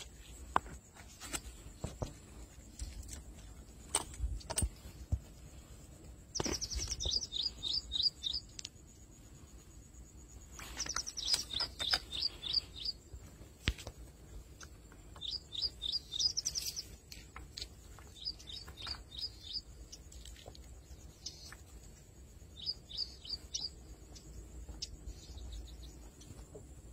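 A bird singing in about six short phrases, each a quick run of high chirps, a few seconds apart. Scattered clicks and knocks sound in between, mostly in the first few seconds.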